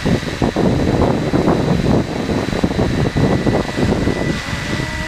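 Gusty wind buffeting the microphone in uneven rumbling surges, over the steady high whine of a hovering electric RC helicopter, a Flywing BO105.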